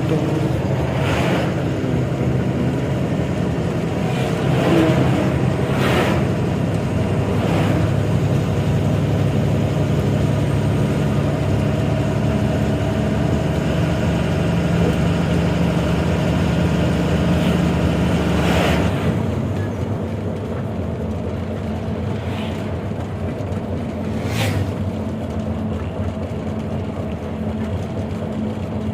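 Goods lorry's diesel engine running under way, heard in the cab. The engine note drops and quietens a little about two-thirds of the way through, and a few brief sharp sounds rise over it.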